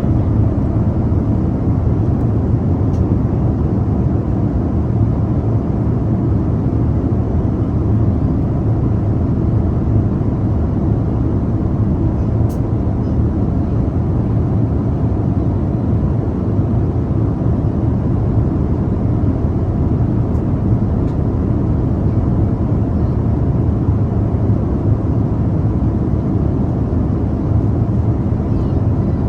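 Steady airplane cabin noise in flight: an even, low roar of engine and airflow that does not change.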